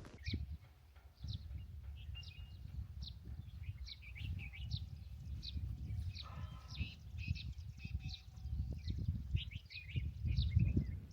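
A bird calling, a string of short high chirps that drop in pitch, about two a second, over a low rumbling noise.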